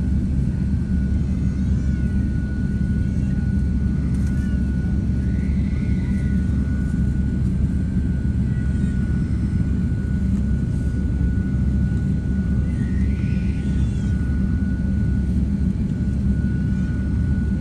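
Jet airliner engines running with a steady low rumble, with a faint constant high whine over it.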